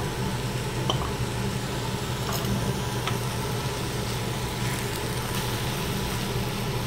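Potatoes, carrots and tomato sizzling steadily in a pan of hot spiced oil and a little water, with a few faint clicks, under a steady low hum.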